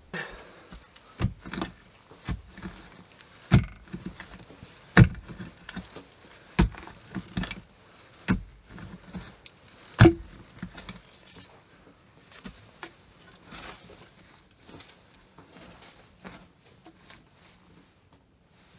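A series of sharp knocks, about one every second or so, the loudest about five and ten seconds in. After that only faint clicks and rustling.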